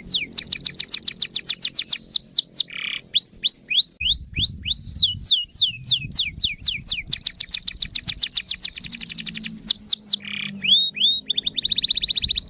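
Canary in full song: a fast series of whistled notes, each sweeping downward in pitch, repeated several times a second. The notes speed up into rapid trills about two-thirds of the way through and again near the end, and two short harsh rasping notes are mixed in.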